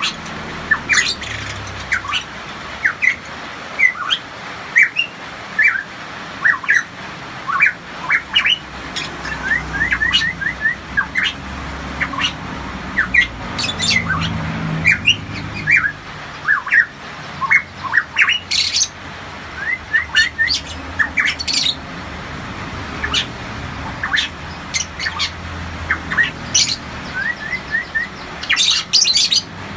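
Pitohui calling continuously: a busy run of short, sharp whistled notes and squawks, including quick strings of rising notes and some high, clipped calls.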